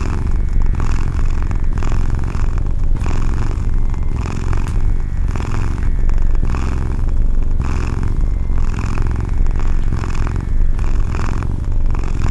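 A domestic cat purring steadily and close up, a continuous low rumble that swells and eases with each breath.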